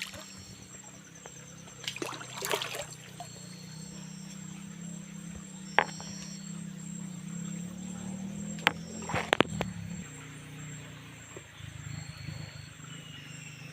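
Forest ambience: insects chirping in short high-pitched pulses over a steady low hum, with a few sharp clicks and rustles, the loudest about 6 and 9 seconds in.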